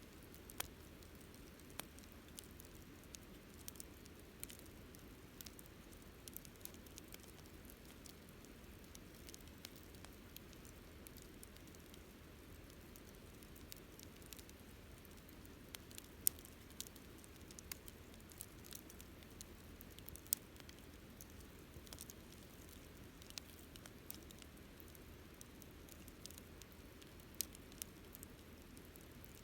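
Wood campfire crackling: irregular sharp pops and snaps over the soft, steady hiss of the burning fire, a few pops louder than the rest.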